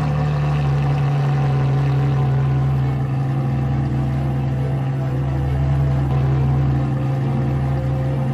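A car engine idling steadily, with an even, unchanging drone.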